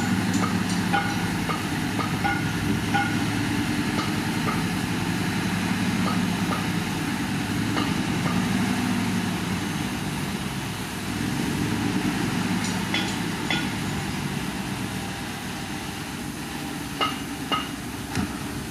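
Crawler bulldozer's diesel engine running steadily under work, with repeated metallic squeaks and clinks from its tracks; a few sharper clanks come near the end.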